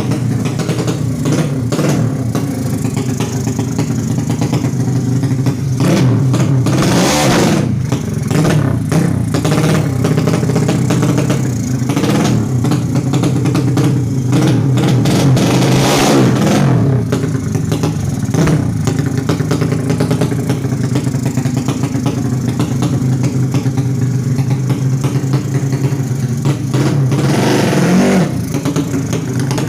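Yamaha Jupiter Z drag bike's bored-out 200cc four-stroke single-cylinder engine running through a DOS racing exhaust while warming up: a loud, uneven fast idle, blipped up in revs three times, about a quarter of the way in, about halfway and near the end.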